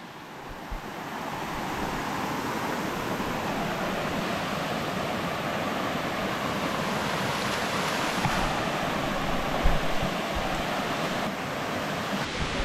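Waterfall water rushing in a steady roar, swelling up over the first couple of seconds. A few low bumps come about two-thirds of the way through.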